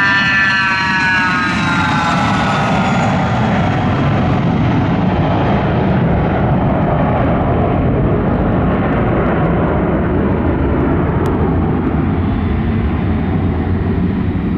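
Jet aircraft passing close by: the engines' high whine falls in pitch over the first few seconds as it goes past, leaving a loud, steady rumble.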